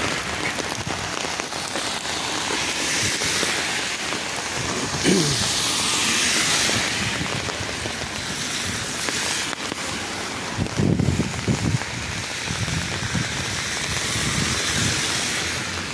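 Steady rain falling on wet pavement. Car tyres hiss on the wet road, swelling and fading as traffic passes, loudest about five to seven seconds in. A short burst of low rumbling comes about eleven seconds in.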